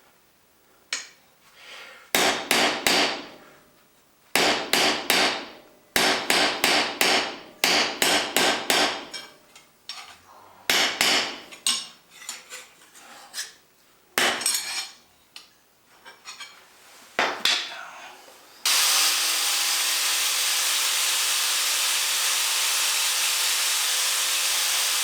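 Hand hammer striking hot cold-rolled steel bars on an anvil in runs of rapid blows, the metal ringing after each strike. About nineteen seconds in, a loud steady hiss starts and holds.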